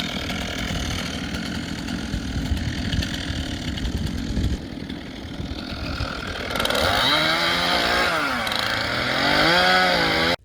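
Chainsaw limbing spruce logs: it runs steadily under load for about four seconds and eases off briefly. From about six and a half seconds in, its engine revs up and down several times.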